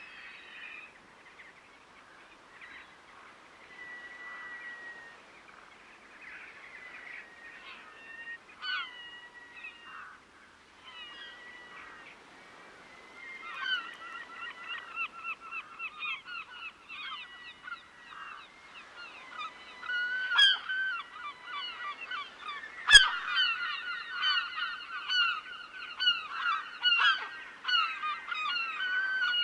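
A flock of birds calling, the calls sparse at first, then from about halfway coming in rapid overlapping series several times a second and growing louder. Two sharp clicks in the second half, the later one the loudest sound.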